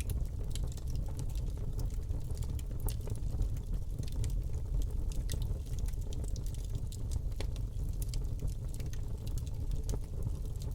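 Wood fire crackling in a fireplace: frequent small sharp pops and snaps, irregularly spaced, over a steady low rumble of burning.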